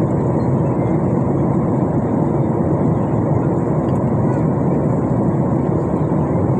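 Steady jet airliner cabin noise: the even rumble and rush of the engines and airflow heard from inside the passenger cabin.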